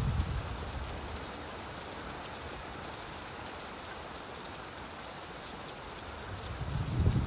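Steady rain, with a low rumble of thunder dying away in the first second and building again near the end.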